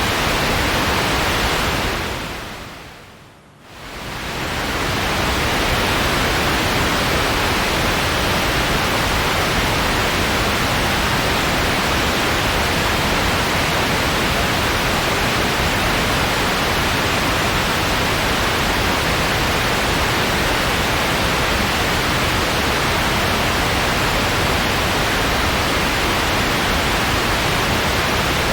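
Steady white noise, an even hiss across all pitches. About two seconds in it fades down to a brief low point, then swells back up to the same steady level.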